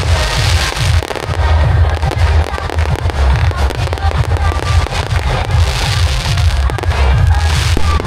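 Fireworks display: many shells bursting in quick succession, deep booms overlapping with crackling, with music playing along.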